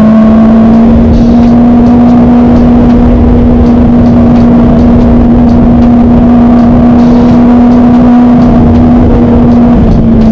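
Kawasaki ZX25R's inline-four engine running loudly at steady high revs, one held engine note that eases off slightly near the end.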